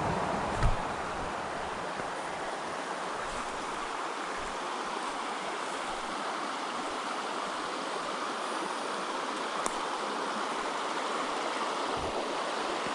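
Small creek's water rushing and burbling steadily, with a couple of brief low thumps.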